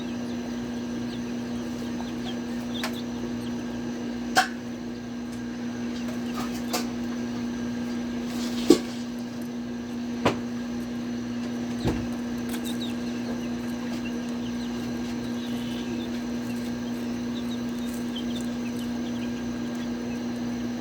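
Chickens clucking faintly over a steady low electrical hum, with four sharp knocks spread through the middle of the stretch.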